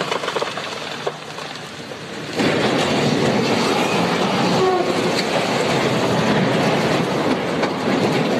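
A train running on the rails: a steady rushing rumble that suddenly gets louder about two and a half seconds in and holds.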